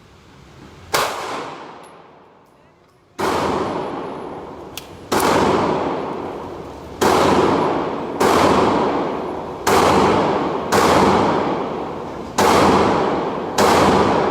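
Gunshots at a shooting range: nine single shots fired one to two seconds apart, each sharp crack trailing off in a long echo.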